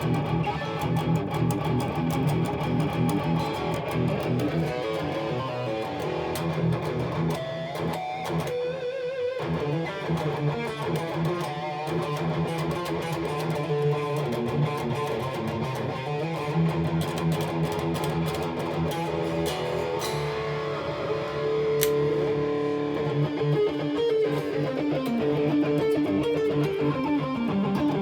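Electric guitar played continuously through a Maxon OD808 overdrive pedal set as a boost, in a sound test of the pedal's tone.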